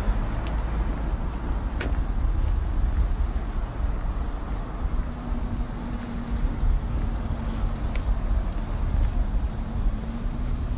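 Steady high-pitched trilling of crickets over a continuous low rumbling noise outdoors.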